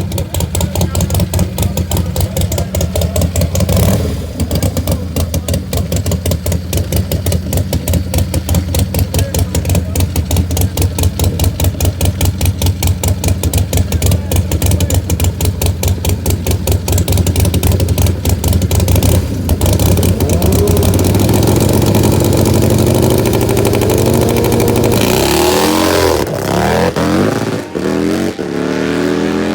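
Drag-racing motorcycles: a loud engine running with a rapid, heavy pulse for most of the time, then revving and pulling away with pitch climbing, rising and falling through the gears in the last few seconds.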